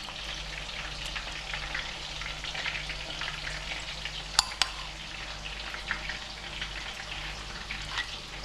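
Hot cooking oil sizzling and crackling steadily, with two sharp clicks about four and a half seconds in.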